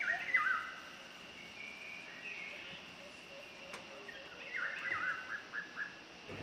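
Birds chirping in quick runs of short notes that glide up and down, once about half a second in and again in a longer run around five seconds in, over a faint steady hiss.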